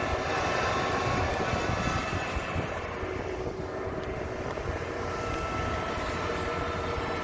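Kubota DC70 combine harvester's diesel engine running steadily under load as the tracked machine crawls through sticky mud; the higher part of the sound eases briefly about three seconds in.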